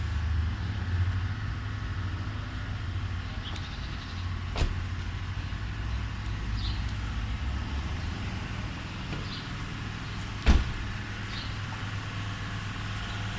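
Same Silver 130 tractor's diesel engine running steadily, with two sharp knocks, one about four and a half seconds in and a louder one about ten and a half seconds in.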